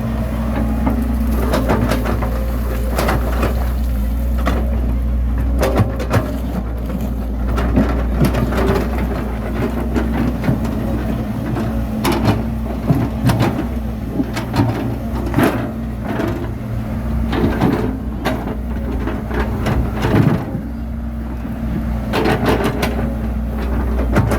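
Bulldozer's diesel engine running steadily while it pushes soil, with frequent irregular clanks and knocks over the engine hum.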